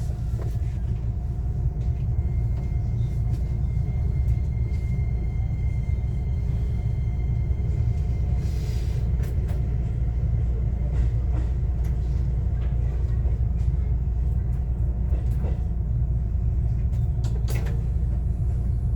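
Running noise inside a JR West 125-series electric railcar: a steady low rumble of wheels on rail. A faint, steady high tone sounds for the first several seconds, with a few light clicks scattered through.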